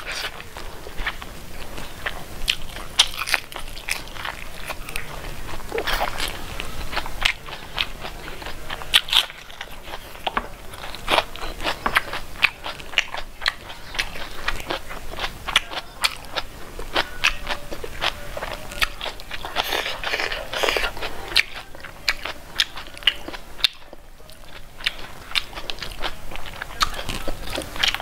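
Close-up eating sounds: a person chewing and biting pork eaten by hand, with many sharp crunchy clicks and wet mouth sounds throughout.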